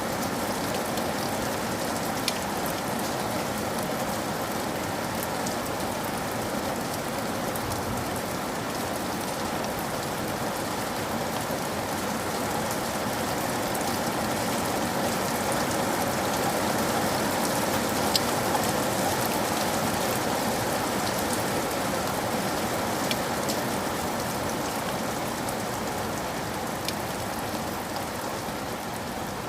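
Steady rain falling, with a few sharper drop ticks scattered through.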